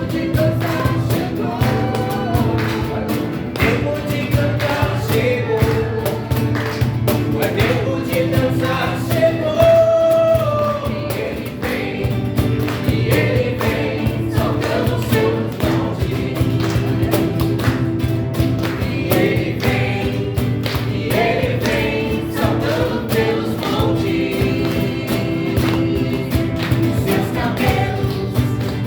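Christian worship song: a choir singing over instrumental accompaniment with a steady beat.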